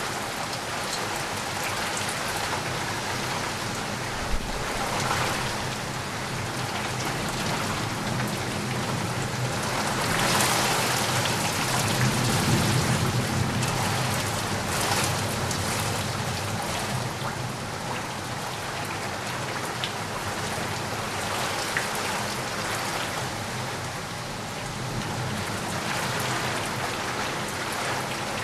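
Steady rainfall, drops pattering on a surface, swelling louder for a few seconds midway.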